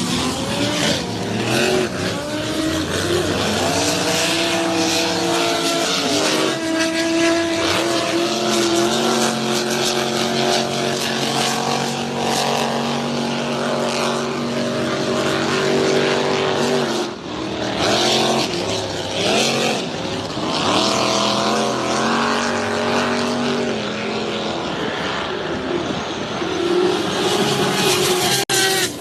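Racing powerboat engines running hard at high revs, their pitch holding steady for several seconds at a time, then rising and falling, with a brief dip partway through.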